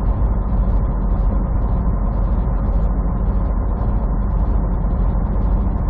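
Semi truck's engine and road noise heard inside the cab while driving: a steady low drone with no change in pitch.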